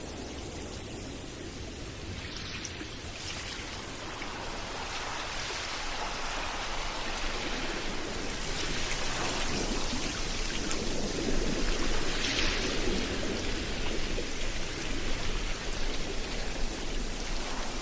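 Steady rain falling, a dense noisy hiss that grows louder over the first half and then holds.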